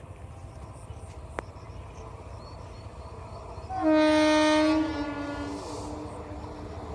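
Train horn giving one loud blast of about a second, roughly four seconds in, that drops to a fainter held tone before stopping. A steady low train rumble runs underneath.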